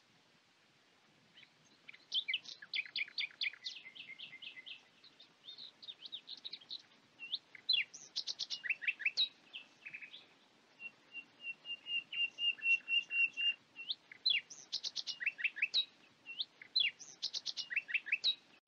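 Birds singing: a mix of quick chirps, trills and clear whistled notes, beginning about a second and a half in, with a long run of rapid repeated notes around the middle. It cuts off suddenly at the end.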